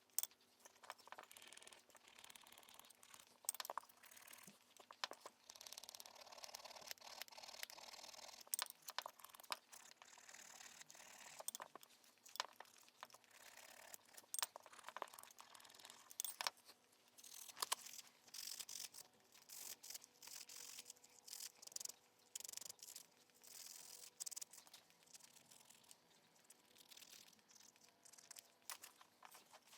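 Faint scattered clicks, taps and rustling from hands handling small parts, tools and plastic packaging during brake caliper work.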